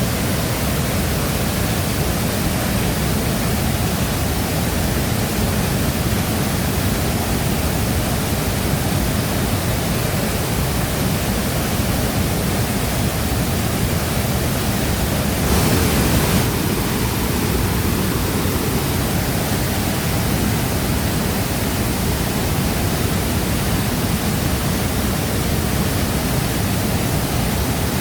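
Shifen Waterfall's water pouring and crashing into its pool: a steady, dense rush of water with one brief swell a little past halfway.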